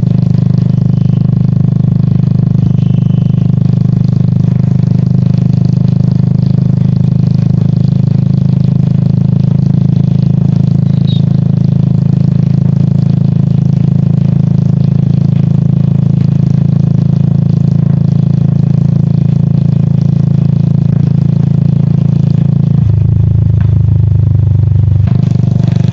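Royal Enfield Classic 350's single-cylinder engine running steadily while riding. Its note shifts lower for about two seconds near the end, then settles back.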